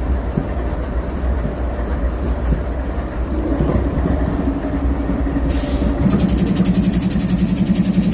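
GE AC4400CW diesel locomotive with a 16-cylinder engine, running over a low, steady rumble. A steady engine tone comes in about halfway, then grows stronger and louder about six seconds in, with a fast pulsing hiss over it.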